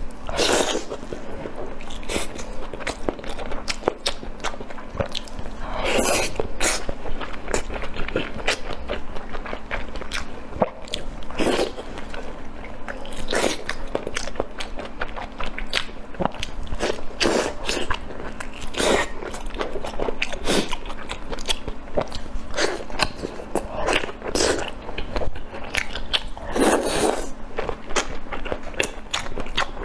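Close-miked chewing and biting of spicy pork large intestine. A steady run of small mouth clicks, with a louder bite every few seconds.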